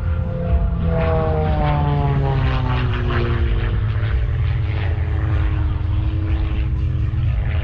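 Propeller airplane flying past with its engine running, the engine pitch falling as it goes by.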